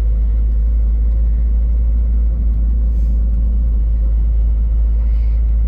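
Steady low rumble of a car driving along a road, heard from inside the moving car.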